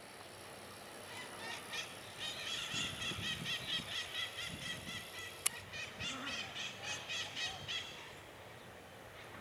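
A bird calling in a rapid series of short, harsh, repeated notes, about five a second, which stop a little before the end. A single sharp click comes about halfway through, over a faint low rumble.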